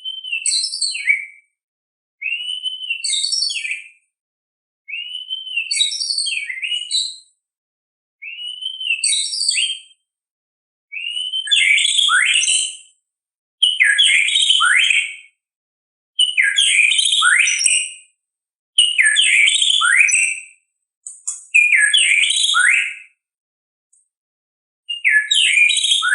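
White-rumped shama (murai batu) singing: about ten whistled phrases, each one to two seconds long, coming every two to three seconds with silent gaps between. Each phrase opens with a clear arched whistle, then runs into higher, quicker notes and falling sweeps, and the phrases grow fuller after the first few.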